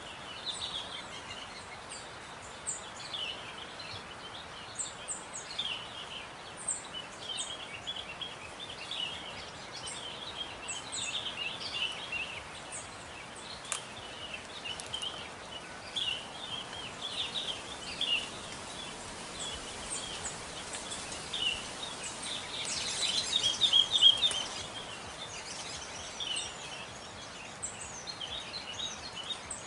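Many small birds chirping in short, quick calls over a steady outdoor hiss, with a louder, denser flurry of chirps about two-thirds of the way through.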